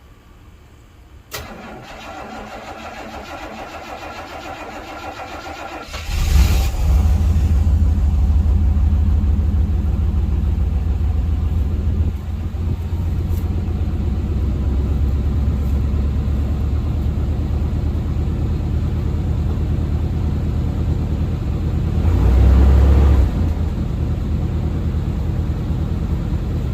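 1991 K1500 pickup's 5.7-litre V8 cold-started in about 1 °F: the starter cranks for about five seconds, then the engine catches and settles into a steady, loud, low idle, briefly louder once well into the run.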